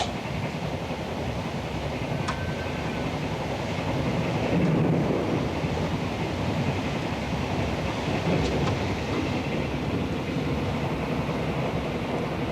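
Japanese blue-train sleeper express running, a steady rail rumble with a few light clicks from the track.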